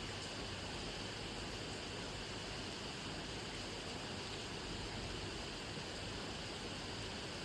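Steady rain falling, heard as an even, unbroken hiss without distinct drop hits.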